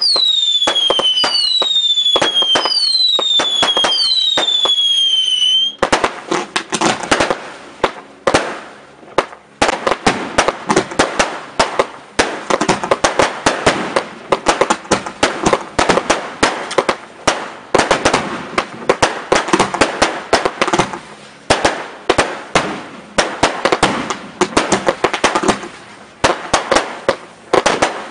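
Display fireworks: a string of whistles, each falling in pitch, about one a second for the first six seconds. Then a dense, irregular barrage of sharp cracks and bangs runs to the end.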